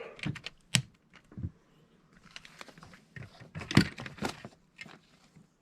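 LEGO plastic pieces being handled and pressed together: a string of sharp clicks and light clatter, the loudest click a little past the middle.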